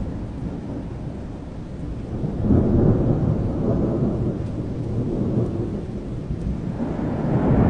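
Rolling thunder rumbling over steady rain. One low swell of thunder comes about two and a half seconds in and slowly fades, and another builds near the end.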